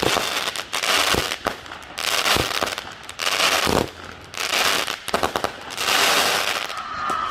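Fireworks going off: a string of sharp bangs mixed with spells of loud crackling, the bursts coming roughly every second.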